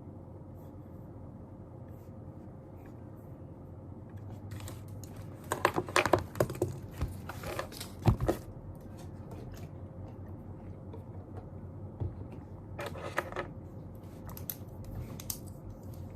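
Scattered sharp clicks and taps from desk work, such as keys and small objects being handled, with a busy run about four to eight seconds in and a short cluster near the end, over a faint steady room hum.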